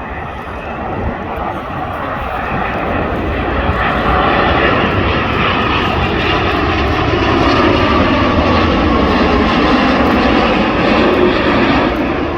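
Boeing 787-9 airliner on final approach to land, its jet engines whining and growing louder over the first few seconds as it passes close by, then easing off slightly near the end.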